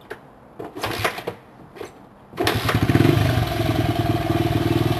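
A few clunks, then a dirt bike's engine catches about halfway through and settles into running steadily with an even, rapid pulse.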